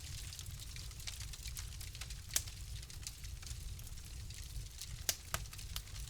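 Wood fire crackling in a fireplace: scattered sharp pops and snaps over a low, steady rumble. The loudest pop comes about two seconds in, and a quick cluster of pops comes near the end.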